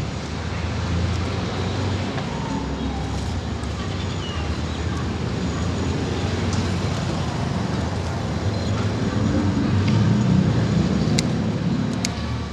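Low engine rumble of a passing motor vehicle, swelling to its loudest about ten seconds in and then easing off, with a few sharp clicks near the end.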